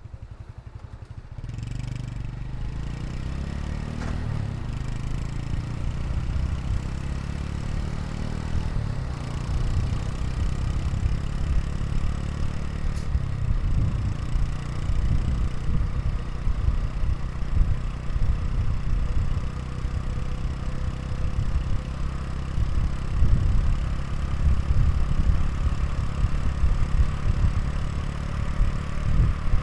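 Honda Super Cub 110 Pro's single-cylinder four-stroke engine idling through its exhaust. It gets louder about a second and a half in, rises and falls briefly in pitch, then idles steadily.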